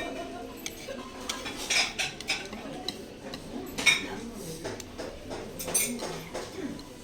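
Cutlery clinking and scraping against dishes during a meal: a scattered run of short sharp clinks, the loudest about four seconds in.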